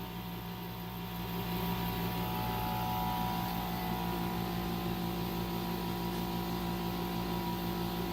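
Paris Rhone 10200 BTU window air conditioner making a steady electrical hum with a faint higher tone, a little louder from about a second and a half in, while no air comes out and its fan does not turn: a malfunctioning unit.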